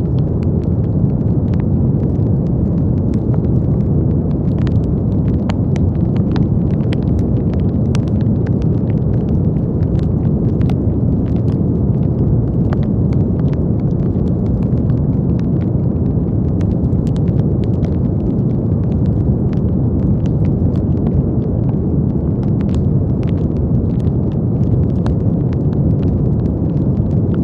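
Crackling fire: a steady low rumble with irregular sharp pops and crackles scattered throughout.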